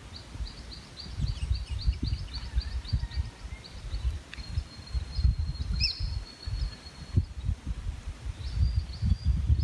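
Birds calling: a rapid series of short high chirps, about four a second, for the first few seconds, then a long thin high note held for about three seconds, with more chirps near the end. A low irregular rumble runs underneath.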